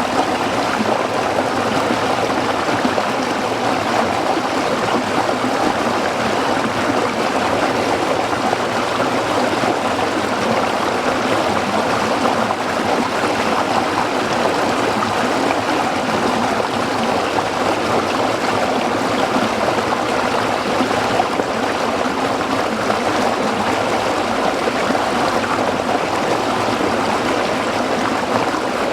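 Small stream flowing over rocks: a steady, even rush and babble of water.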